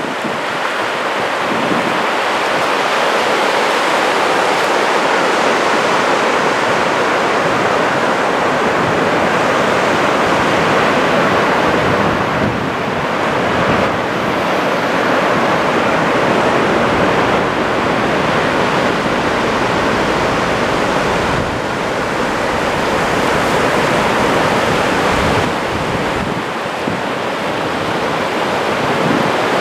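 Steady wash of small breaking waves on a wide sandy beach at low tide, with gusts of wind buffeting the microphone.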